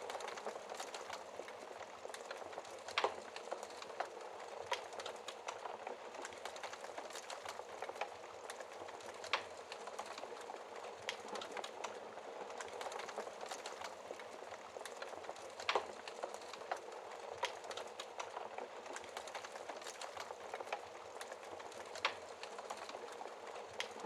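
Wood fire burning in a fireplace: a steady soft hiss of flames with irregular crackles and pops, a few sharper pops standing out about every six seconds.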